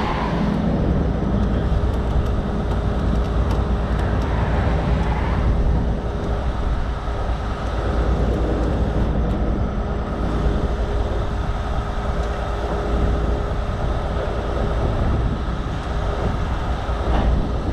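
Heavy diesel truck engine running steadily with a deep rumble and a constant hum, working under load during a slow recovery pull.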